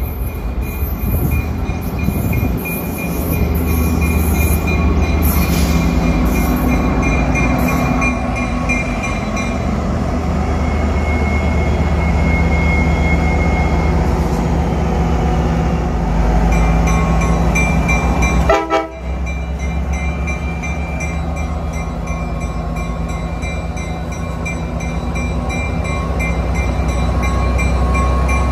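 Tri-Rail diesel locomotive pulling its train into the station and drawing up at the platform, its engine running steadily, with a repeating high ringing tone over the engine's drone.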